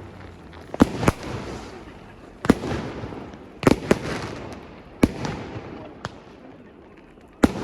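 Fireworks bursting, a string of sharp bangs every second or so, each followed by a fading crackle, with a quick double bang a little under four seconds in.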